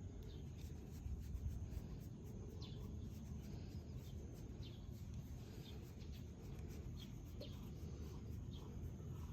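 Faint outdoor ambience: a steady low rumble with a scattering of brief, distant bird chirps.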